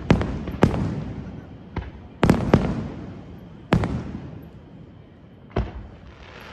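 Aerial firework shells bursting: about seven sharp bangs, each trailing off in a long echoing rumble. The bangs come close together in the first four seconds, with a last, weaker one near the end.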